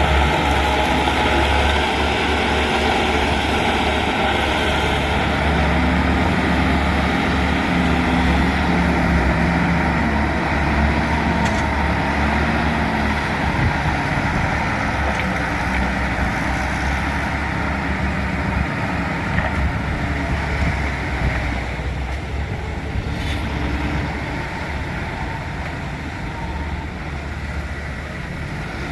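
A bulldozer's diesel engine running steadily under load, then growing quieter over the last few seconds.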